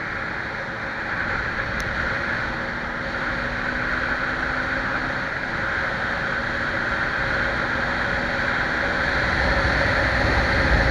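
Scania 111 diesel truck driving along the road: steady engine and road noise, growing gradually louder toward the end.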